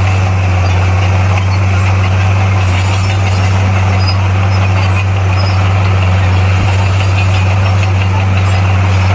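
Bulldozer's heavy diesel engine running steadily with an even, unchanging low hum.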